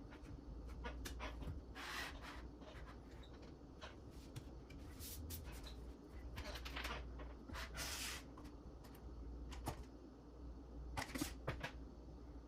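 Handling noises of small parts and wiring: scattered clicks and taps with several short rustles, over a low steady hum.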